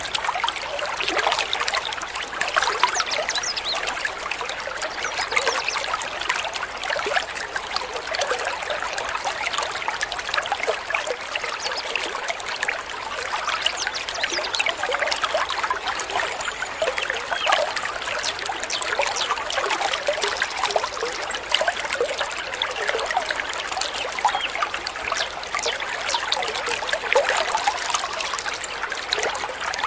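Water of a small stream trickling and babbling steadily.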